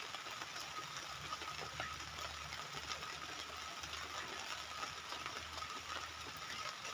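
Light drizzle pattering as scattered small ticks on a plastic tarp, over a steady low hum.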